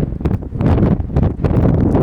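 Wind buffeting the microphone: a loud, low rumble that swells and dips in quick gusts.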